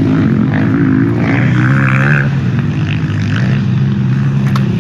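Honda CR500 two-stroke single-cylinder motorcycle engine running steadily at low revs, its pitch shifting slightly about a second and a half in.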